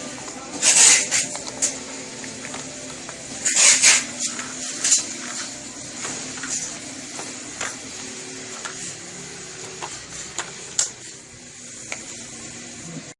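Plastic building blocks being handled, clattering and clicking, with louder rattles about a second in and again around four and five seconds, then scattered small clicks.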